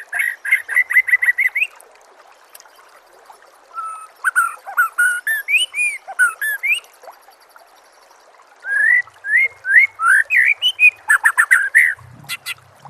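Songbird singing in three spells of quick whistled and chirped notes, the first a fast run of repeated chirps, the later ones varied rising and falling whistles, over a faint steady hiss.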